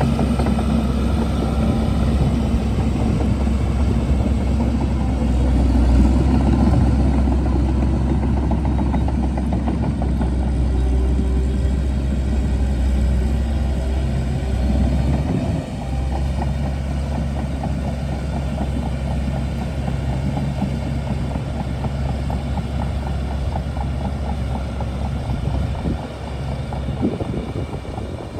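Shantui DH17C2 bulldozer's diesel engine running steadily under load, a deep low hum. The engine note drops and shifts about halfway through, and the level eases off again near the end.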